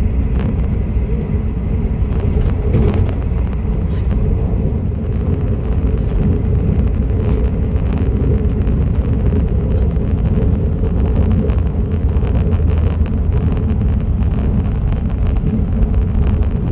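Passenger train running along the track: a steady low rumble with occasional faint clicks.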